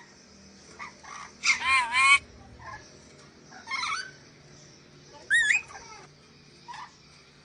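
Nuri dora parrot calling in separate bursts: a loud, warbling call about one and a half seconds in, a shorter call near four seconds, a high wavering whistle a little after five seconds, and a faint short call near the end.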